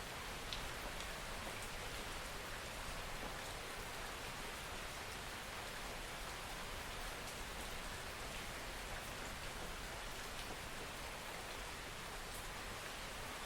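Steady soft rain falling on a surface, an even hiss with a few faint individual drops ticking now and then.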